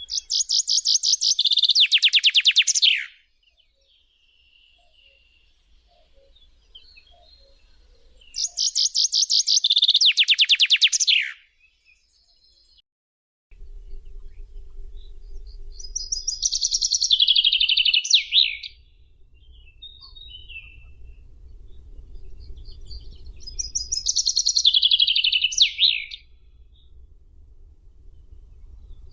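A songbird singing four phrases of about three seconds each, several seconds apart. The first two are fast trills of rapidly repeated high notes ending in a downward slide. The last two, over a faint low hum, are more jumbled notes that also slide down at the end.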